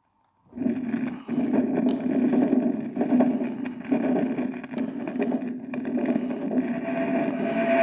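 Electric guitar through a heavy effects pedal: a loud, rough, wavering drone with a noisy, engine-like texture. It starts abruptly about half a second in, and a steady high sustained tone comes in near the end.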